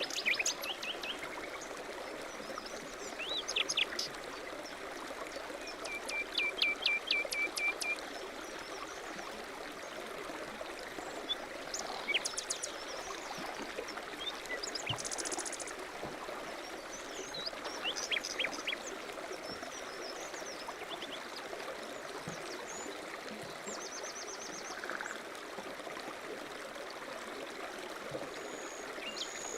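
A stream running steadily, with small birds calling and singing on and off over it. The birdsong includes a run of quick repeated notes about six to eight seconds in and a high buzzy trill around fifteen seconds.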